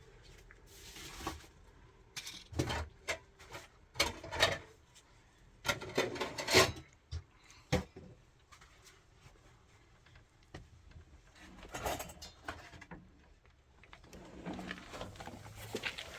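Irregular knocks, bumps and scraping as objects are handled and set down. The sounds are busiest in the first half and sparser later.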